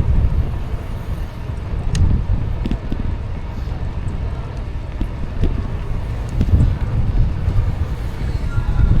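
Wind buffeting the microphone of a camera on a moving e-bike: a steady, gusting low rumble, with a few faint clicks.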